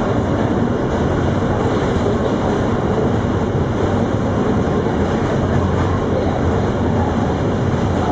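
R160B subway train running at speed, heard from inside the car: a steady, loud rumble of wheels on rail and car noise.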